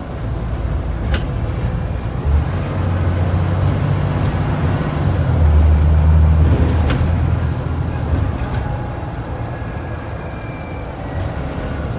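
Scania DC09 five-cylinder diesel of a Scania N94UD double-decker bus pulling hard under acceleration. The engine note builds about two seconds in, is loudest around six seconds, then eases off, with a couple of sharp knocks and rattles.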